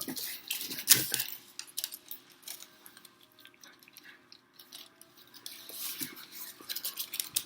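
Close-miked eating and food handling: a run of scattered small crinkles and clicks, with a sharp click about a second in.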